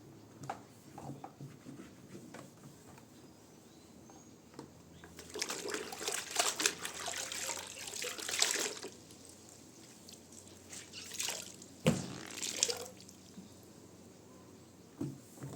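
Water running and splashing in two spells of a few seconds each, with a sharp knock during the second.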